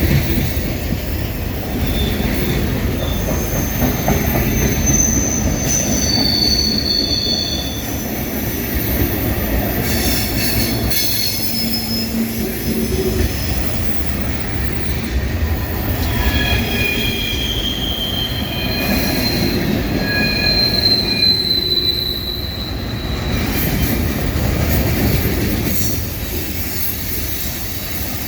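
Freight cars of a long CSX manifest train rolling past close by: a steady rumble of steel wheels on rail, with high-pitched wheel squeal coming and going, strongest a few seconds in and again past the middle.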